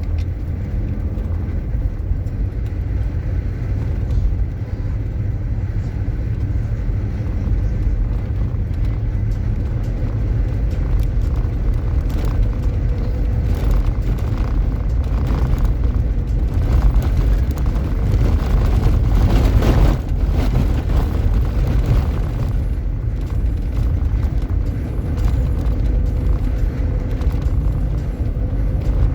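Vehicle driving: a steady, loud low rumble that swells slightly around the middle.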